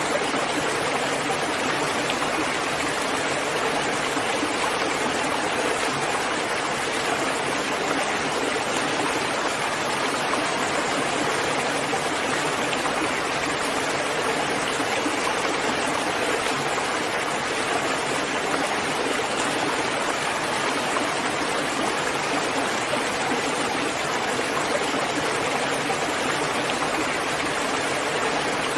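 Steady heavy rain falling, an even unbroken hiss with no single drops standing out.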